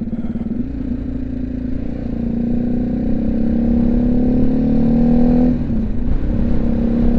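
BMW G310GS's single-cylinder engine pulling under acceleration, its note rising steadily and then dropping sharply about five and a half seconds in before settling steady again. Wind noise buffets the helmet mic throughout.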